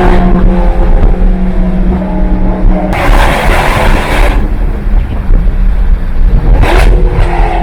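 Sports car engine running at steady revs on the road, with a rush of noise about three seconds in and a shorter one near the end.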